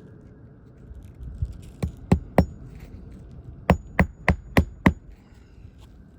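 A hammer driving roofing nails through asphalt shingles: about four strikes, a short pause, then five quick strikes in a row.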